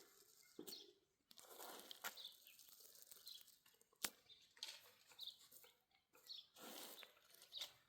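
Faint bird chirps, short and repeated every second or so, over soft rustling and a few light clicks.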